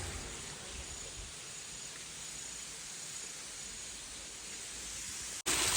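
Faint, steady hiss of rushing water from a waterfall. Near the end it cuts abruptly to a louder rush of falling water.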